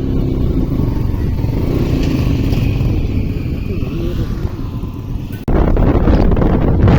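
Motorcycle engine running steadily while riding, with road and wind noise. About five and a half seconds in, the sound cuts abruptly to louder wind buffeting on the microphone.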